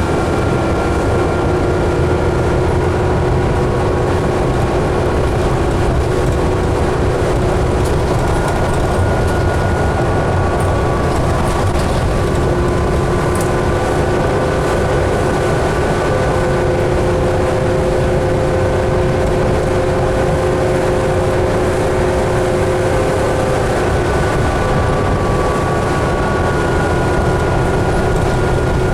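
Cabin sound of a 2011 New Flyer D60LFR articulated diesel bus under way: a steady engine and road rumble with several whining drivetrain tones that drift slowly up and down in pitch.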